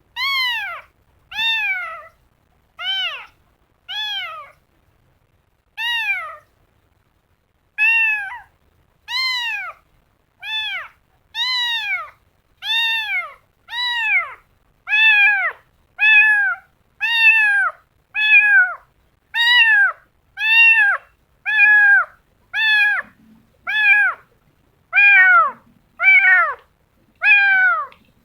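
Kitten meowing over and over, a high call roughly once a second, each call rising and then falling in pitch.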